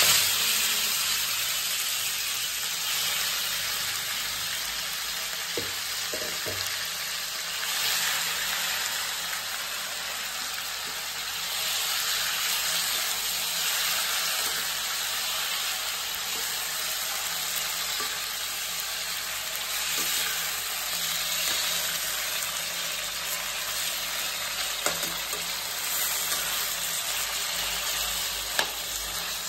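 Marinated chicken pieces sizzling and frying in hot mustard oil in a stainless steel kadai, loudest right at the start. A metal spatula stirs through them, with a couple of sharp clicks against the pan near the end.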